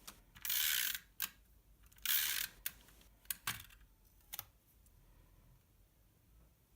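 Stampin' Up! SNAIL adhesive tape runner rolled along card twice, each a short rasping run of about half a second, about a second and a half apart, followed by a few light clicks.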